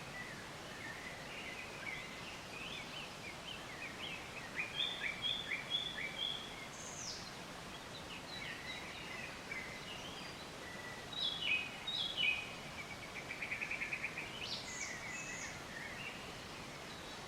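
Birds chirping and calling over a steady outdoor hiss, with scattered short notes and a fast trill about two-thirds of the way through.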